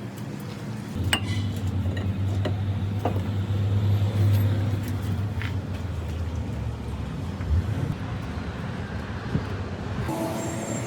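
Motor vehicle engine running with a steady low hum that swells and then fades, with a few sharp metallic clicks.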